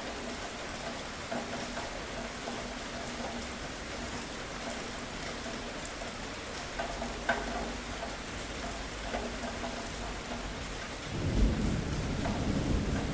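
Steady rain falling, with scattered louder drops. About eleven seconds in, a loud low rumble of thunder begins and rolls on.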